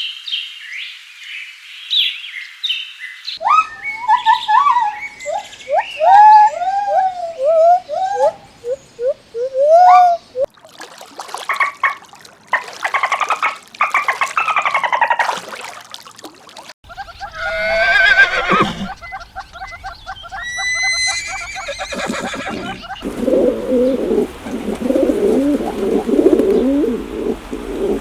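A run of different animal calls, one after another. High bird chirping at the start gives way to repeated falling calls, then other animal calls, with lower rhythmic calls near the end.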